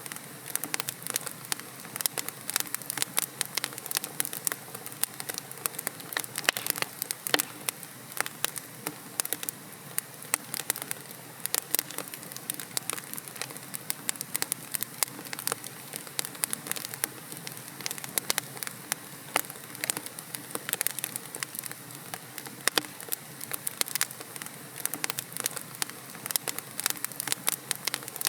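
Wood fire in a fireplace crackling steadily: dense, irregular sharp pops and snaps from burning logs over a soft hiss of flames.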